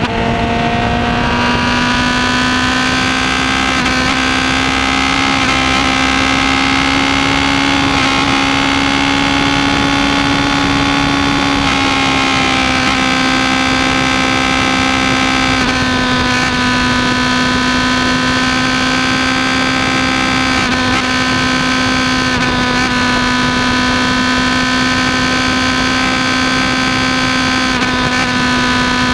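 Suzuki GSR750 inline-four engine running steadily through a Shark Factory aftermarket exhaust, holding an even note with no revving; the pitch creeps up slightly and then drops a little about twelve seconds in.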